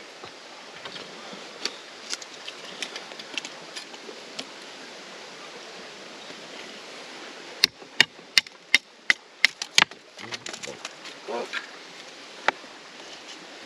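Steady outdoor background noise with faint scattered ticks. A little past halfway comes a quick run of about nine sharp clicks or knocks, about four a second, and one more near the end.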